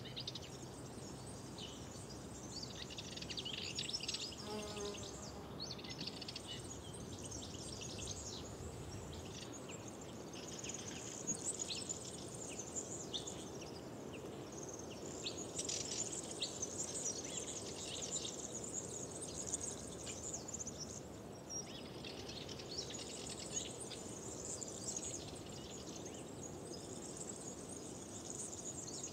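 Songbirds chirping and singing in a dense spring chorus, in busy bouts of high calls with short lulls between them, over a steady low background hiss.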